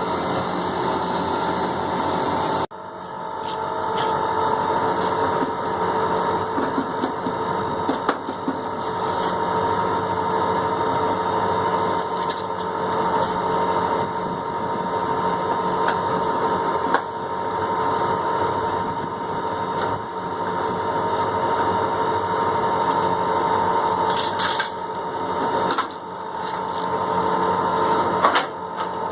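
Steady hum of running machinery with a whine, dipping briefly about three seconds in, and a few light clicks near the end.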